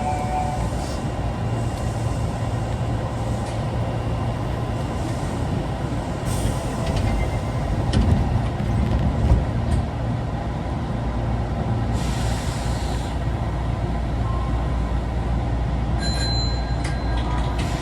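Running noise of an Osaka Metro 22 series subway car, car 22962, heard from inside: a steady low rumble with a few short hissing bursts. The title labels this car an abnormal-noise car.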